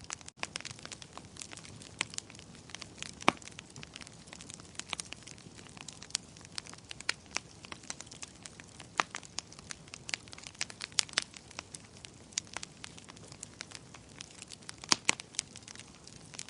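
Fire in a fireplace crackling: irregular sharp pops and snaps, several a second, some much louder than the rest, over a steady low hiss, with a brief dropout just after the start.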